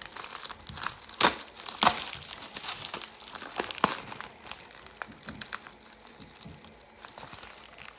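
A mailed package being opened by hand: packaging crinkling and tearing, with a few sharp crackles, the loudest about one and two seconds in.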